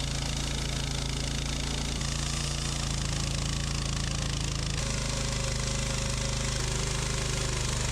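Sawmill engine running steadily under load while cutting a thick slab from a large log. Its pitch steps slightly about two seconds in and again near five seconds.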